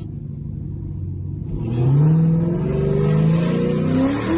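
Supercharged LT4 V8 of a Camaro ZL1 accelerating, heard from inside the car: the engine note holds steady at first, then climbs in pitch from about a second and a half in until just before the end.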